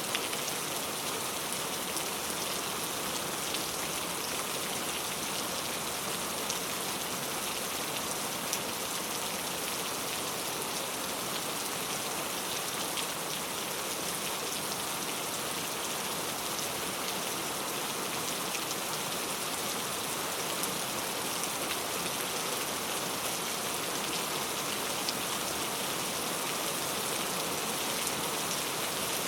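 Heavy rain falling steadily on mango tree leaves, a dense even patter with scattered louder individual drops.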